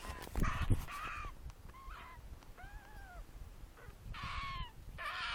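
A young bird's harsh, whining begging calls, repeated several times, some rising and falling in pitch, the longest and loudest about four seconds in: it is begging to be fed more.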